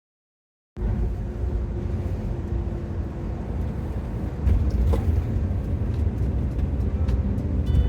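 Microbus driving along, a steady low rumble of engine and road noise that starts abruptly about a second in, with a few faint clicks.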